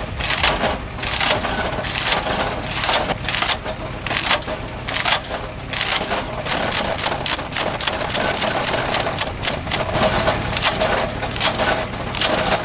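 Vintage wood chunker chewing logs into gasifier-fuel chunks: a quick, uneven string of crunching chops over the steady hum of its drive.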